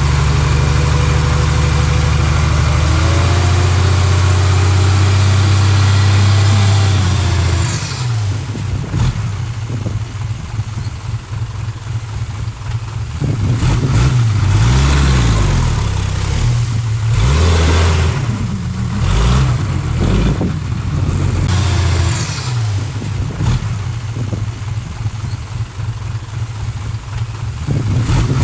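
Heavy-equipment diesel engine running, held steady for several seconds and then revving up and down again and again as the machine works.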